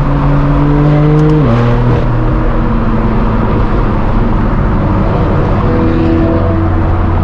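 BMW M4 F82's twin-turbo inline-six through a straight-piped AWE non-resonated track exhaust, pulling at steady revs. About a second and a half in, the note drops in a sudden step, as at an upshift, then holds at lower revs and rises slightly near the end.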